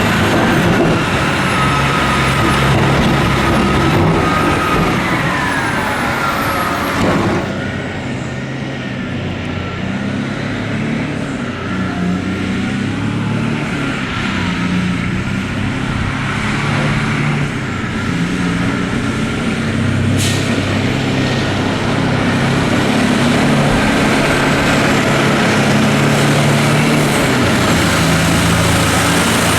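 Heavy diesel engines of a quarry excavator and dump truck running loud and steady. A falling whine comes about six seconds in, and a short sharp hiss about twenty seconds in.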